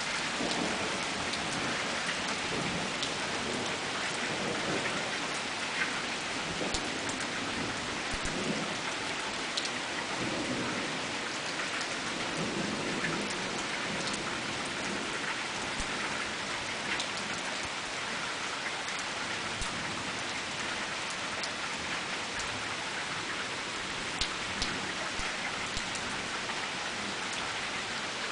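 Hard, steady rain of a thunderstorm, with many sharp drop ticks on a nearby surface. Low rumbles of thunder come through in the first half.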